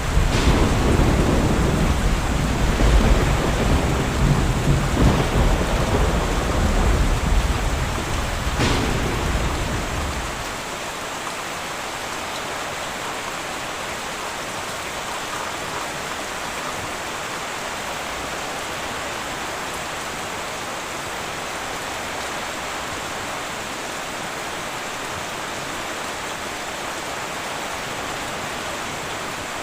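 A thunderclap rumbles loudly for about ten seconds, with a sharp crack just after it begins and another near its end, then fades. Steady heavy rain on a tin roof continues under it and on alone.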